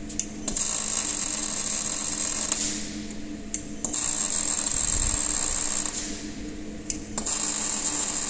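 Machinery running in a repeating cycle: a hissing whine with a steady high tone comes in three bursts of about two seconds each, with short gaps holding small clicks, over a steady low hum.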